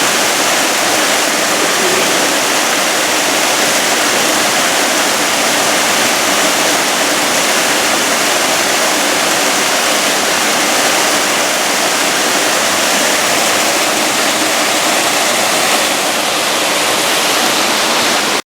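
Waterfall pouring after heavy rain: a loud, steady, even rush of falling water, cutting off abruptly at the end.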